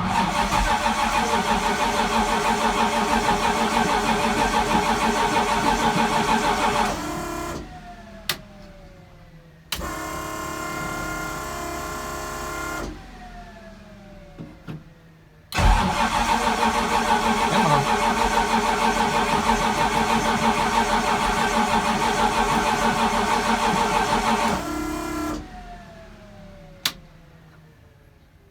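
A starter cranks the cold, low-compression, E85-fuelled engine of a turbocharged Fox-body Mustang twice without it catching, a long crank of about seven seconds and then one of about nine seconds. Each crank ends in a falling whine as the starter spins down, followed by a click. Between the cranks a steady electric hum runs for about three seconds.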